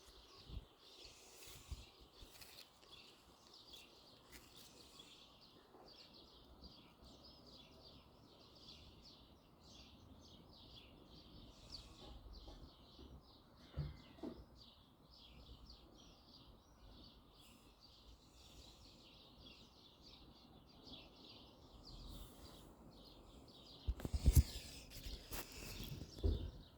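Birds chirping faintly in a fast series of short, high chirps through most of the stretch, with a few louder low thumps near the end.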